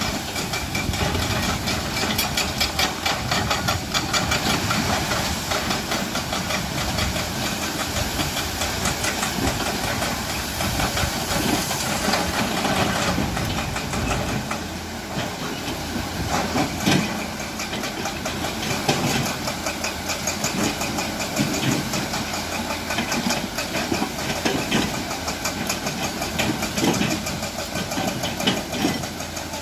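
Diesel engine of a concrete mixer truck running steadily, with a dense, noisy wash of sound over it.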